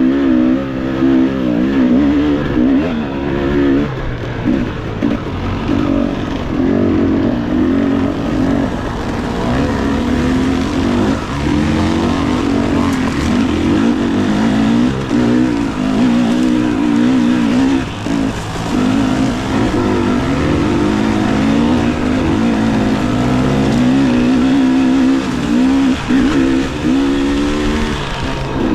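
Dirt bike engine running under constantly changing throttle, its pitch rising and falling in short revs and drops, with no steady speed.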